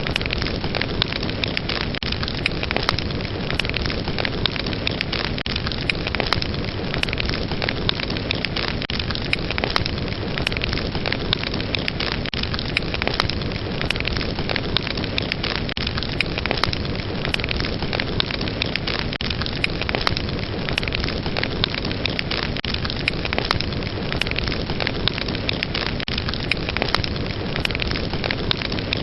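Fire burning, a steady rushing hiss with dense, irregular crackles and pops.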